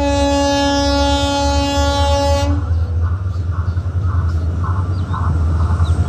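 Diesel locomotive horn sounding one long blast of about two and a half seconds over the heavy low rumble of the locomotive's engine. After the horn stops, the rumble carries on with a regular clatter from the passing train.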